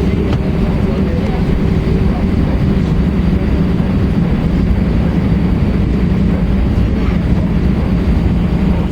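Airbus A320-232 jet engines running with a loud, steady, low rumble and no change in pitch or level.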